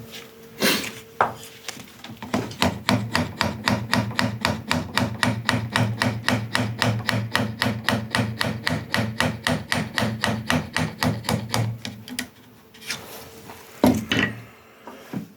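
A hand tool worked back and forth on wood in quick, even strokes, about five a second, for roughly ten seconds. A couple of sharp knocks come just before the strokes begin and again near the end.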